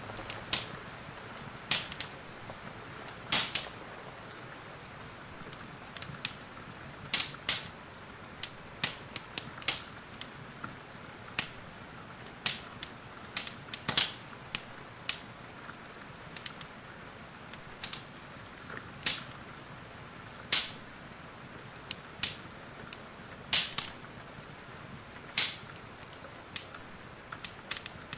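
Wood fire in a fireplace crackling, with irregular sharp pops and snaps, over a steady hiss of rain.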